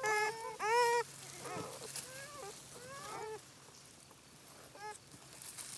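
Young beaver kits whining: a run of short, arching, high-pitched cries, loudest in the first second, followed by fainter calls and a last one near the end.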